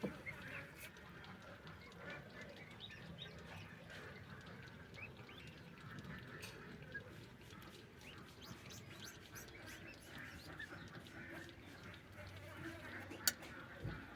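Pekin ducks calling: many short high calls scattered throughout, with a single sharp click near the end.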